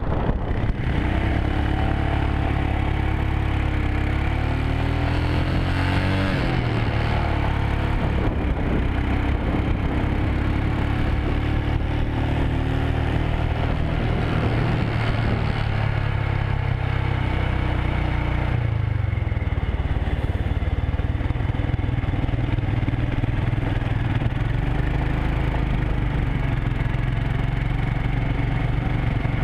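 Motorcycle engine running under way, its pitch rising and falling several times as the throttle opens and closes and gears change, with steady road and wind noise.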